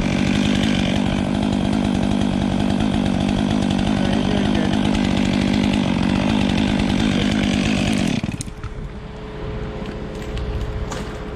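Chainsaw running at high revs, cutting into dead ash wood, with a steady high engine note. About eight seconds in it drops away suddenly, leaving a quieter steady hum and a few clicks.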